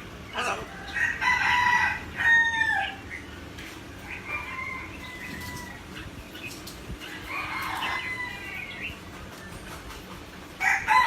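A pet parrot calling repeatedly, in short squawks and longer drawn-out calls, some falling in pitch.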